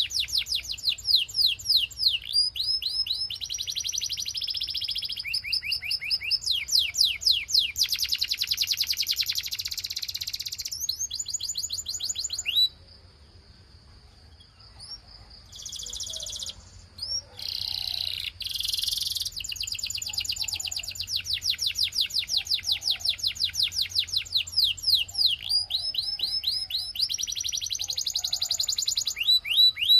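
Male Belgian canary singing: long fast trills of rapidly repeated sweeping notes that change speed from phrase to phrase. Partway through it pauses on a held high whistle and a few short bursts before the trills start again.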